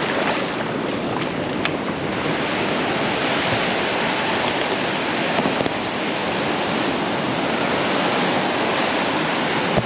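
Ocean surf breaking and washing on the beach, a steady rush of waves, with some wind buffeting the microphone.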